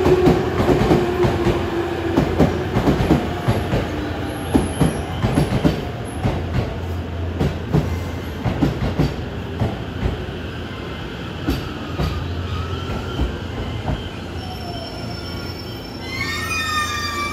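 Electric train wheels clicking over rail joints: a rapid, irregular clickety-clack over a low rumble, loudest at the start and thinning out. Near the end, high whining tones glide in.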